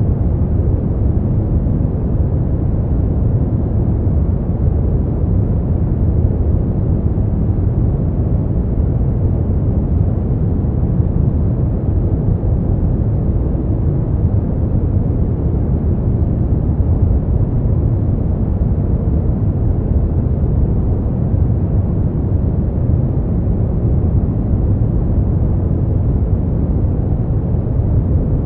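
Steady brown noise: an even, deep rumbling hiss, strongest in the low end and dull in the highs, with no change in level.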